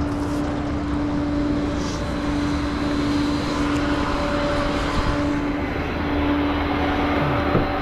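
Flatbed tow truck running, a steady engine and road drone with a constant low hum throughout.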